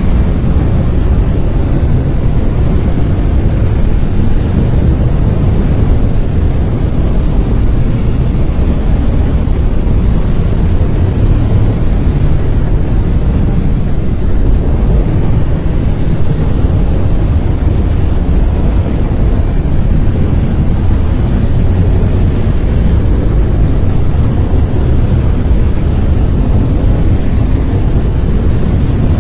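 Brown noise: a steady, deep rumbling hiss, strongest in the lows and falling away toward the highs, unchanging throughout.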